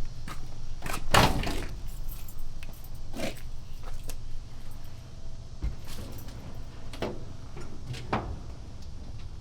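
Vehicle door and keys being handled before a start: a loud knock about a second in, then several lighter clicks and knocks, with keys jangling.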